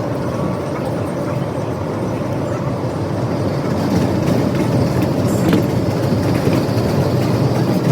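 New York City subway train running on the rails, a loud, steady rumble with a faint constant whine.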